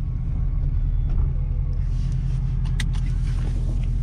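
Ford Super Duty's 6.7-litre Power Stroke diesel V8 idling steadily, with a few light clicks near the end.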